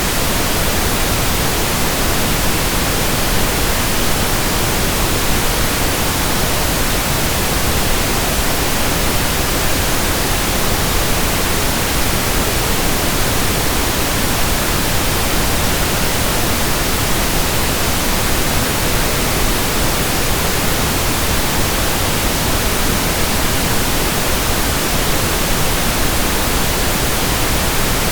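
Steady synthetic pink noise: an even, unbroken hiss spread across the whole range, with no change in level.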